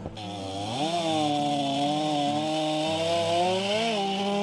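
Gas chainsaw engine revving up about a second in and then running steadily at high speed.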